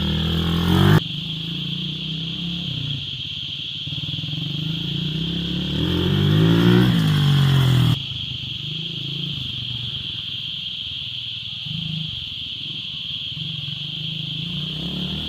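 A small vehicle engine running and revving up and down, breaking off abruptly about a second in and again about eight seconds in. A steady high-pitched buzz runs throughout.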